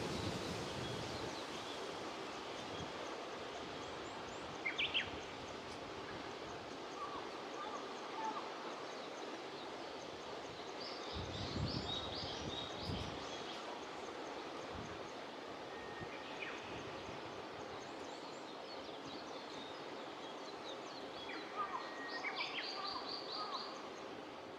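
Rural outdoor ambience over rice paddies: a steady hiss, with birds calling in short chirping phrases a few times. A few low rumbles come near the middle.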